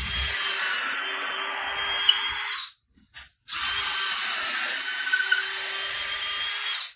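Power drill boring through a wooden board, enlarging the bolt holes: a steady whine in two runs with a brief stop in between.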